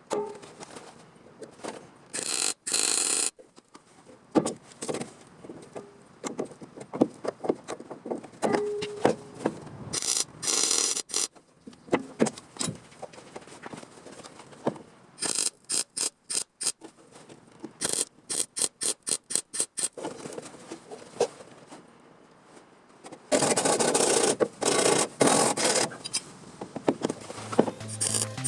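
Hand-tool work on sheet metal: irregular scraping or filing strokes and clicks, with runs of quick even strokes, about four to five a second, in the middle and a denser spell of scraping near the end.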